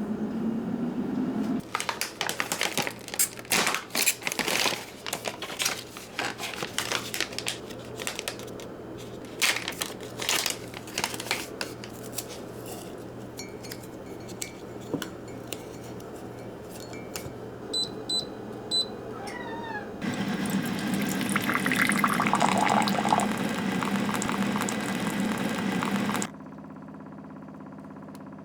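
Kitchen work sounds: a run of sharp clinks and knocks, like dishes and utensils being handled, then water running for several seconds from about twenty seconds in.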